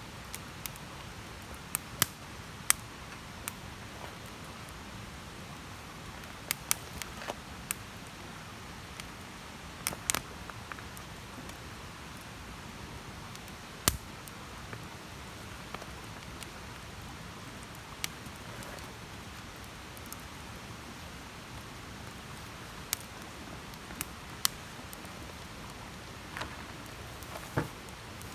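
Wood campfire burning, crackling with sharp, irregular pops and snaps scattered over a steady soft hiss.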